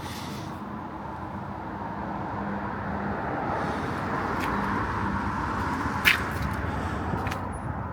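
Outdoor road traffic noise, with a vehicle passing that swells and fades, and a single sharp click about six seconds in.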